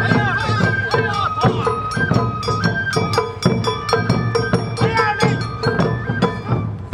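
Live Awa Odori festival music: a flute melody held in long stepping notes over a driving beat of drum and metal bell strikes, with shouted voices over it.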